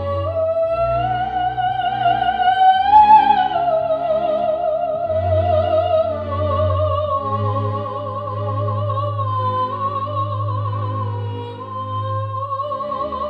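A soprano singing in operatic style with wide vibrato: a rising phrase that peaks about three seconds in, then long held high notes. Steady low notes sound underneath.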